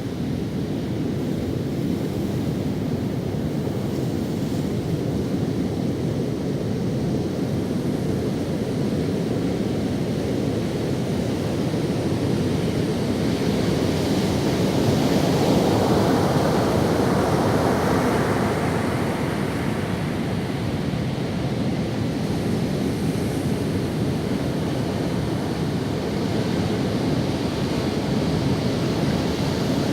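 Ocean waves breaking and washing up on a sandy beach, a steady surf rush that swells as a wave breaks about halfway through and eases again, with a smaller swell near the end.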